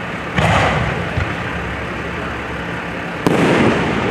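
Fireworks display: two aerial shells bursting about three seconds apart, each a sudden boom that dies away over about half a second.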